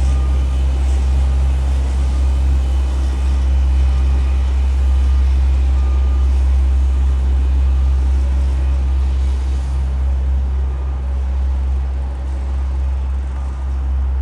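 Heavy diesel road-construction machinery running steadily, a deep, even engine rumble with mechanical noise over it.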